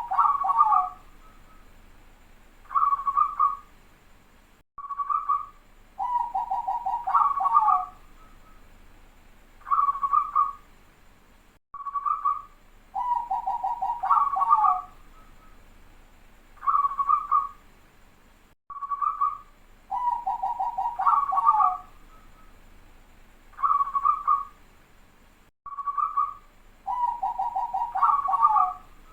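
Zebra dove (perkutut) cooing its song, the phrase repeating about every seven seconds, four times. Each phrase is a short coo, then a fast, tightly packed rattling trill, then two or three clear coos: the tight, rapid 'rapat' song of a local-type perkutut.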